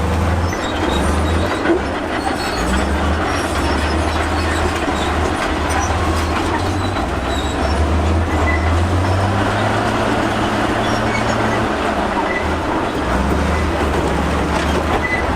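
Crawler bulldozer at work: its diesel engine runs under a load that rises and eases, over a steady clatter and grinding from its steel tracks and the rock it pushes.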